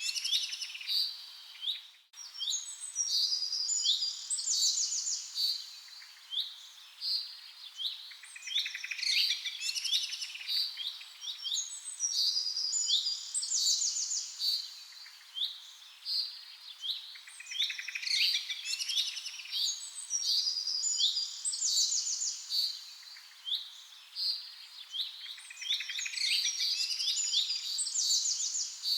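A chorus of small birds chirping and twittering, many short overlapping calls and rapid trills, with a brief break about two seconds in.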